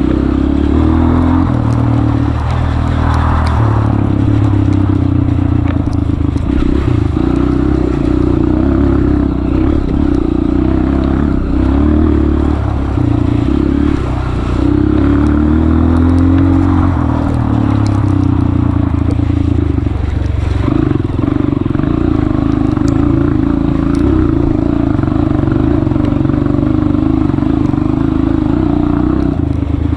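Honda CRF230F's air-cooled single-cylinder four-stroke engine running under load off-road, its revs rising and falling continually as the throttle is worked, with scattered clatter from the bike.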